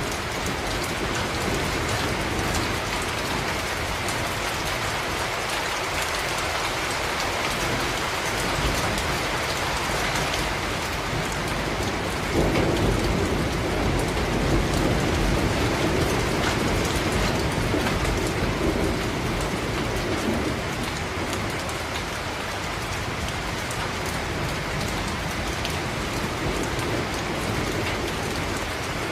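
Steady, dense rain falling on hard surfaces. About twelve seconds in, a low rumble of thunder rises suddenly and rolls on for several seconds before it fades back into the rain.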